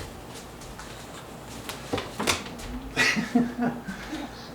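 Parrots foraging in a tub of hay: a few sharp clicks and light rustling, followed by a brief, low, muttering sound about three seconds in.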